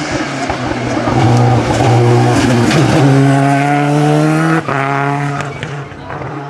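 Race car engine accelerating hard past the listener, its note climbing, with a brief break for an upshift about four and a half seconds in; the sound then fades as the car goes away.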